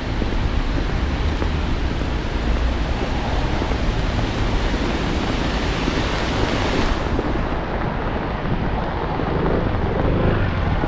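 Steady hiss of falling rain and sleet with wind rumble on the microphone; the upper hiss thins suddenly about seven seconds in.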